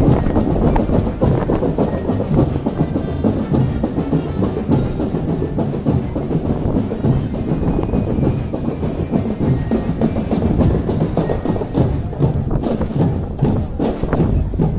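Marching drum band playing a drum-heavy piece, with a dense, continuous run of drum strokes.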